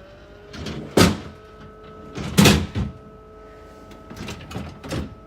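Knocks and scrapes of plastic refrigerator parts and items being handled inside an open fridge: a sharp knock about a second in, a longer knocking scrape a little later, and lighter knocks near the end.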